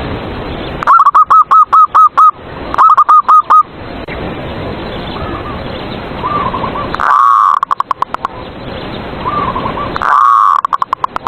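Zebra doves (perkutut) cooing: a fainter dove repeats short staccato coo phrases throughout, overlaid by much louder, distorted bursts of rapid evenly spaced coo notes about a second in, around three seconds, around seven seconds and near the end.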